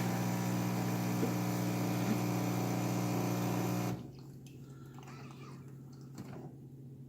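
Miele coffee machine's pump running as water hisses through it during the rinse cycle: a steady hum that cuts off suddenly about four seconds in, followed by faint drips.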